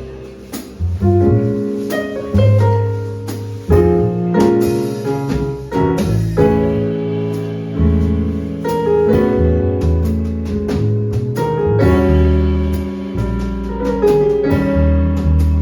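Live small-group jazz: piano playing chords and melodic lines over bass and drums, with frequent short, sharp drum or cymbal strokes.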